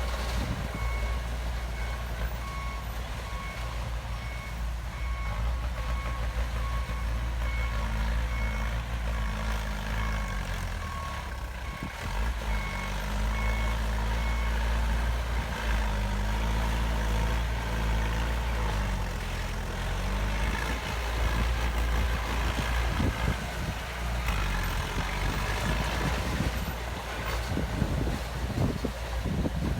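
Heavy diesel construction machine running with a low engine rumble, its backup alarm giving a steady series of high beeps while it reverses. The beeping stops about halfway through, and the engine carries on with irregular knocks and clanks.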